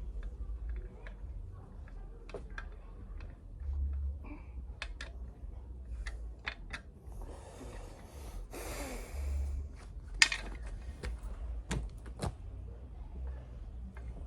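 Hand work on a motorbike wheel: scattered metal clicks and knocks of tools and parts being handled, with a couple of seconds of scraping or rustling past the middle and one sharper knock about ten seconds in.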